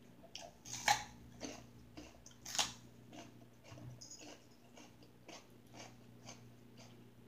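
A person chewing food with wet mouth smacks about twice a second, two louder smacks about one and two and a half seconds in.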